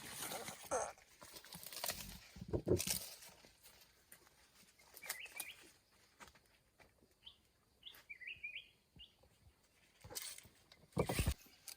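Scattered rustles and light knocks, louder in short bursts early on and near the end, with a few short bird chirps twice in the middle.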